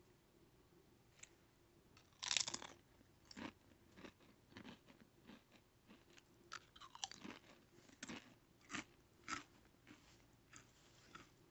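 A person bites into a Pringles potato chip with a loud crunch about two seconds in, then chews it in a string of short, crisp crunches.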